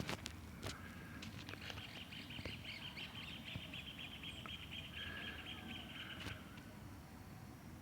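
A bird calling in the background: a rapid, even trill held for about four and a half seconds, with a few short lower calls around it. Several sharp clicks are mixed in.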